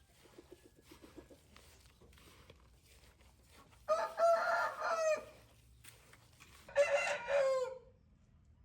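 Rooster crowing twice, each crow about a second long, the second trailing off in a falling note.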